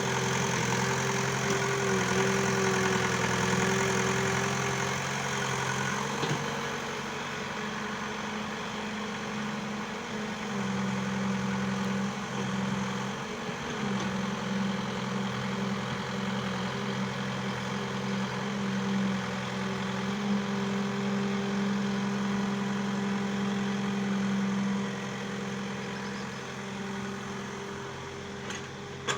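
Excavator engine running at a steady speed, its pitch holding level, easing slightly in loudness about six seconds in and again near the end.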